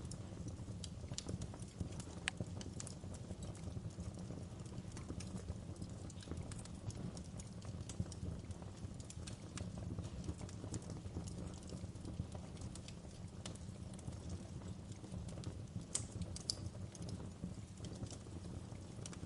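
Wood fire burning in a fireplace: a low steady rumble of the flames with irregular crackles and pops, a few sharper pops standing out.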